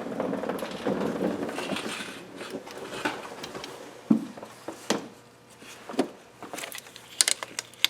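Metal engine parts being handled as a timing chain guide is offered up to the engine to check its fit: rustling handling noise for the first couple of seconds, then a handful of separate light clicks and taps.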